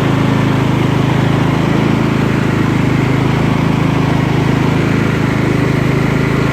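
Scotts lawn tractor's 16-horsepower Kohler Command engine running steadily, blades not yet engaged. It runs smoothly with no surging or popping, its carburetor freshly cleaned.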